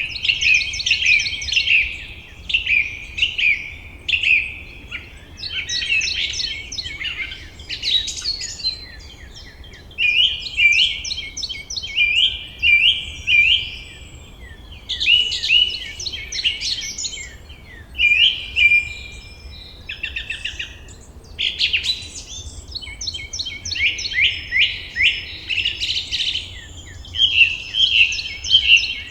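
Several songbirds singing together in a forest chorus: overlapping high chirps, trills and short whistled phrases that come in bursts of a second or two with brief gaps. A faint low hum sits underneath.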